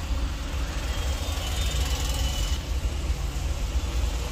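Renault Scala's four-cylinder petrol engine idling steadily, heard from inside the cabin, running on a freshly replaced engine control module.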